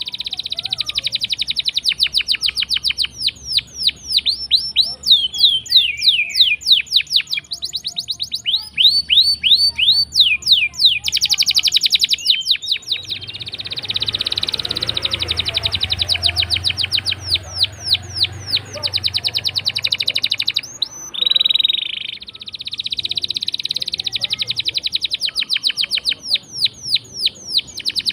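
Domestic canary singing a long, continuous song of rolling trills: rapid runs of repeated notes and quick downward-sweeping phrases, with a brief pause about three-quarters of the way through.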